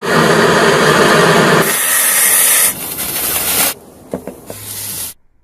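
Loud, steady hissing that lasts nearly three seconds, then fades and breaks off. It is followed by a few short knocks and a brief low hum before it stops.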